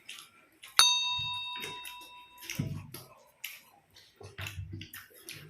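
Metal tableware struck once about a second in, giving a clear ding that rings on for nearly two seconds, among small clicks and clatter of eating and handling dishes.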